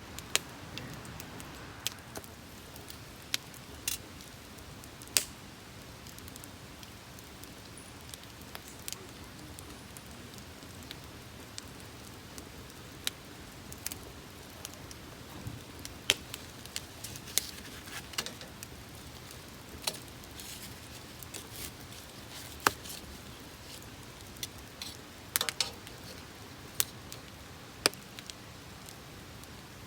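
Wood campfire crackling: a steady low hiss broken by sharp, irregular pops and snaps, a couple of them in quick succession around three quarters of the way through.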